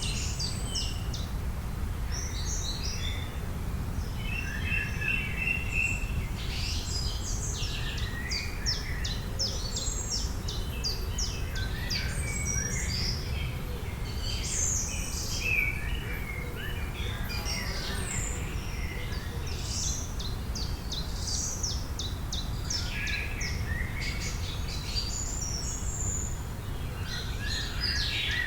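Several birds singing and chirping, with overlapping short chirps and rapid trills coming and going, over a steady low background rumble.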